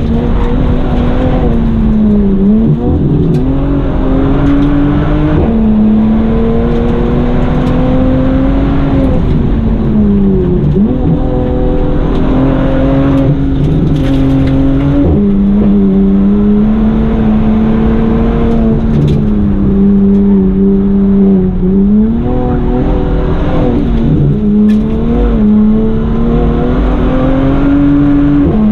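Bentley Continental GT's twin-turbo W12 engine under hard acceleration on a hill-climb run. Its pitch climbs steadily, then drops sharply several times at gear changes and as the car slows for corners.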